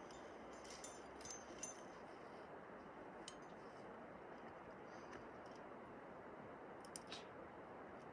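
Faint, scattered metallic clicks and clinks of climbing gear (carabiners and cams on a rack) over a steady low hiss, a few of them close together early on and a pair near the end.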